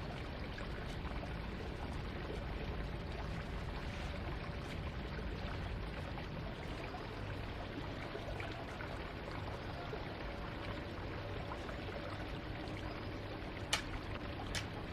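Steady rush of running or pouring water, with two sharp clicks near the end.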